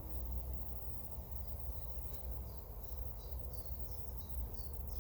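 A small bird calling a rapid run of short, high chirps, about three a second, starting about two seconds in, over a steady low rumble.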